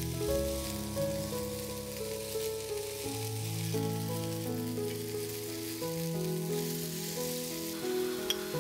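Okra and potato chunks sizzling as they fry in a pan, under background music of steady changing notes with a bass line. A single sharp click comes near the end as a wooden spatula starts stirring.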